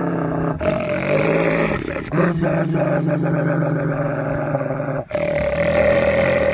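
A dog growling in several long, drawn-out stretches, each breaking off sharply before the next begins.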